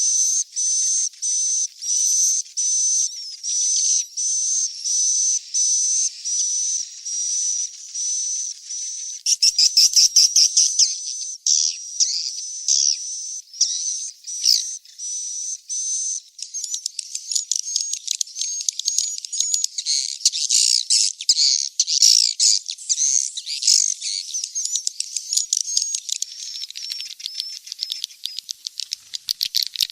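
Swiftlet chicks calling: a high chirp repeated about twice a second, then from about nine seconds in a dense, overlapping twittering of many birds. Rapid clicking near the end.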